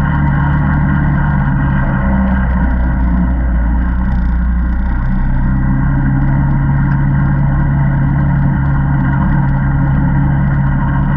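ATV engine running steadily under way, dropping to a lower, steady pitch about five seconds in.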